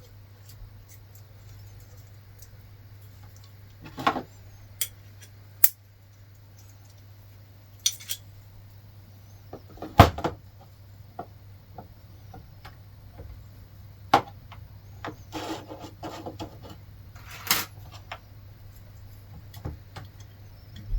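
Small metal engine parts and hand tools clinking and clattering as they are handled, with scattered sharp knocks, the loudest about ten seconds in, and a run of rattling a little later.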